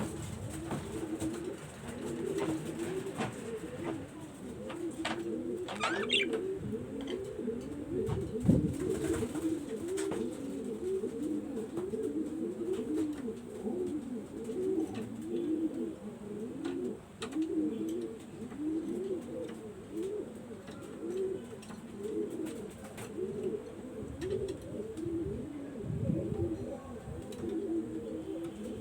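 Pigeons cooing, a steady run of low, rising-and-falling coos that overlap one another, with a few faint clicks and a brief higher call about six seconds in.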